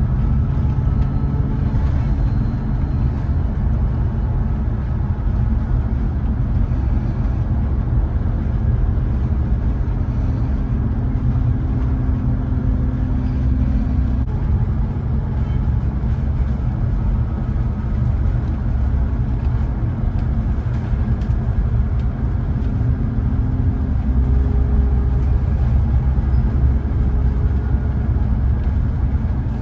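Steady low rumble of a moving double-decker, heard from its upper deck, with a faint running tone that shifts in pitch now and then. The rumble grows a little louder for a few seconds near the end.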